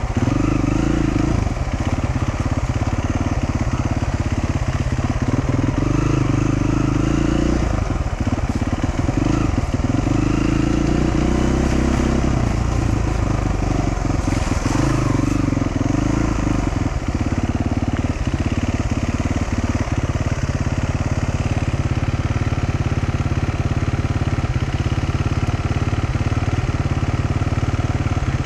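Dual-sport motorcycle engine running at low trail speed, its pitch rising and falling with the throttle for the first half, then settling to a steadier note.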